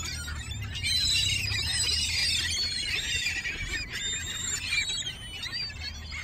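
A flock of gulls crowding in to feed on thrown bread, many overlapping high squeaky calls. The calls are busiest through the middle and thin out near the end, over a steady low rumble.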